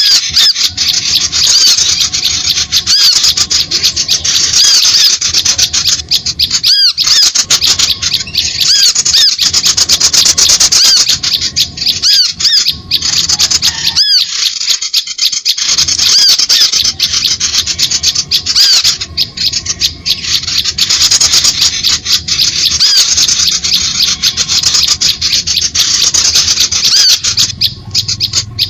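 Bird-lure recording of small birds: a dense, loud, continuous chattering of short high-pitched arching calls, made to draw small birds in to lime sticks.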